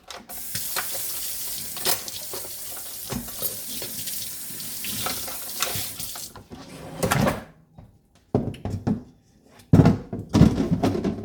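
Kitchen tap running into the sink for about six seconds, then shut off, followed by a few knocks and clatters.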